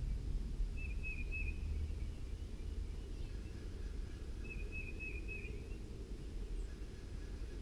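A bird off-camera calling: two short runs of three or four quick high chirps, about four seconds apart, over a steady low outdoor rumble.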